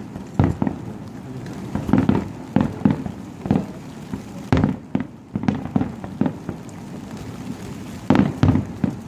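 Aerial fireworks bursting in an irregular series of sharp booms, more than a dozen, with a brief lull before a last pair of bursts near the end.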